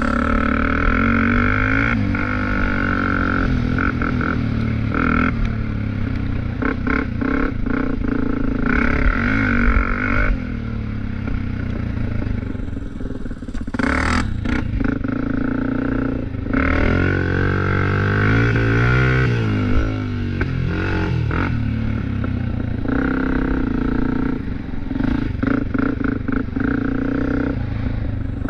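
Off-road vehicle engine running hard, its revs rising and falling over and over as it is ridden, with a few sharp clatters.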